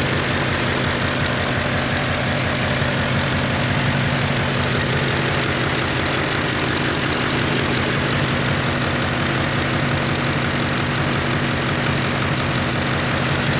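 Audi A8 4E's 4.2-litre V8 petrol engine (code BFM) idling steadily and evenly, the sign of an engine in good running order.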